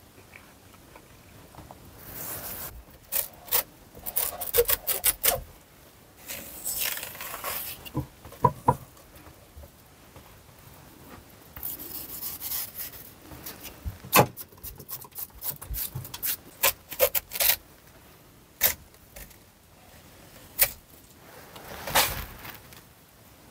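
A knife cutting up a watermelon: scraping and slicing strokes through the rind, with sharp knocks of the blade at irregular intervals.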